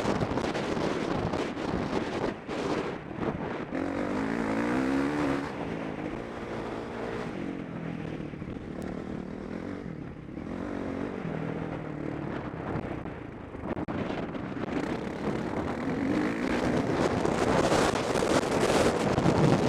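Motocross bike engine revving up and down under race load, its pitch rising and falling repeatedly and loudest near the end, heard from a helmet-mounted microphone with wind rush over it.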